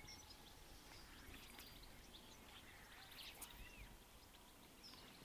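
Near silence: faint outdoor stillness with a few soft, distant bird chirps, a couple of them about three and a half seconds in.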